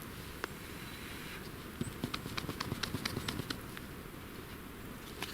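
Small kindling twigs giving a quick run of about a dozen sharp snaps, roughly six a second, with a lone click before it and another near the end.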